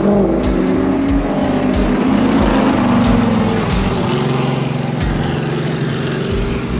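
Car engines running and revving, with music playing at the same time.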